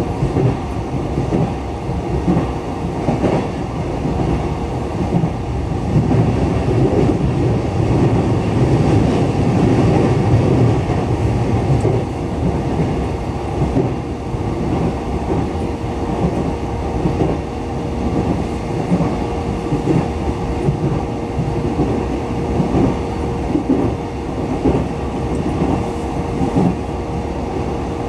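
JR East E233-7000 series electric train running along the track: a steady rumble of wheels on rail with a faint steady tone, swelling a little louder about a quarter of the way in and easing again.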